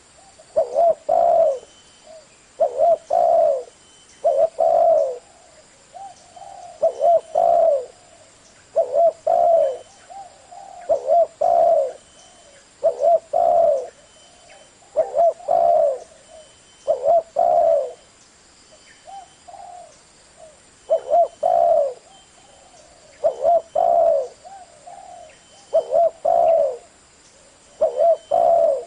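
Spotted dove cooing: a short phrase of two or three coos about every two seconds, with a few softer coos in between.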